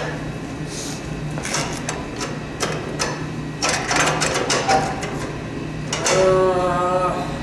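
Loose metal snowblower parts clinking and rattling as they are handled and dropped into a metal popcorn tin, a quick run of sharp clicks. About six seconds in, a brief steady tone with several pitches sounds for about a second.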